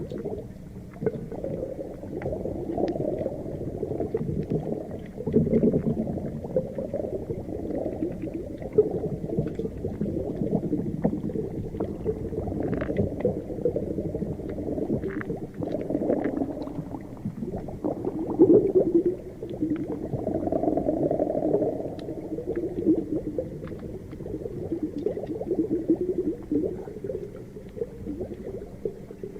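Underwater ocean ambience: a continuous muffled, low bubbling and gurgling wash of water that swells and ebbs, with faint scattered clicks.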